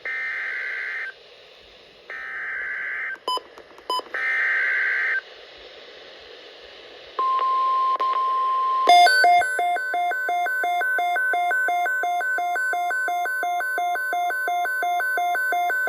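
NOAA Weather Radio alert tones: three one-second bursts of warbling SAME header data, then the steady 1050 Hz warning alarm tone. About nine seconds in, a rapid pulsing electronic beep joins the steady tone and runs on with it.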